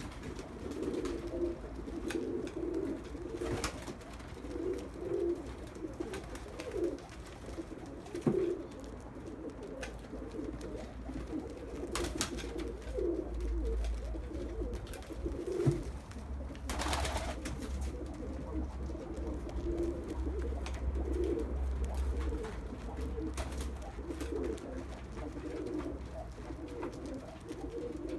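Several domestic pigeons cooing in low, repeated warbling calls, with a few brief sharp rustles or clicks mixed in, one longer near the middle, over a low steady hum.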